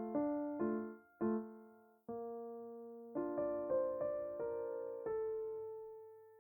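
Slow, gentle solo piano playing a short phrase that ends on a held chord, which rings on and fades away.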